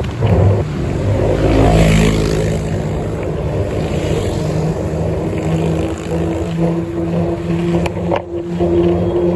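Motor vehicle engine running steadily, with road and wind rumble, as heard while riding in traffic; a louder swell about two seconds in.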